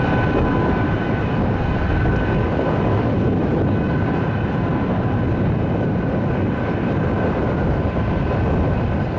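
Airbus A321 jet engines running as the airliner taxis close by: a steady rush with a high, even whine on top.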